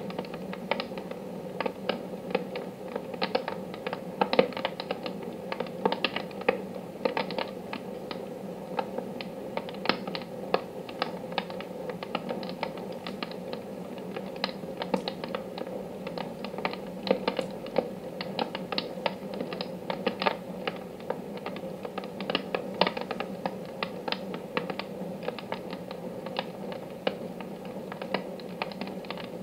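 Wood fire in a wood-burning stove crackling, with many irregular sharp pops and snaps, over a steady low hum.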